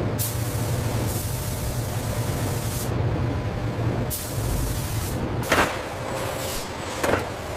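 Factory machinery: a steady low hum with stretches of hissing that start and stop abruptly, and a couple of sharp clanks near the end.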